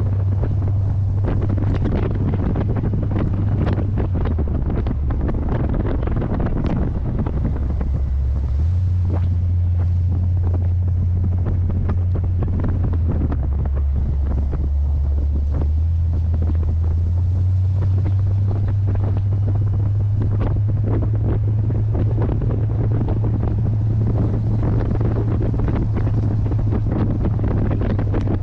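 Heavy wind buffeting on the microphone over the low drone of a C3 Corvette's 350 small-block Chevy V8 under way. The engine's pitch shifts a few times as it runs.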